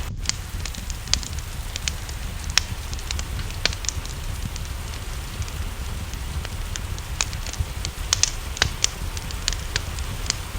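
Wood fire crackling, with irregular sharp pops over a steady low rumble, and a constant hiss of rain behind it.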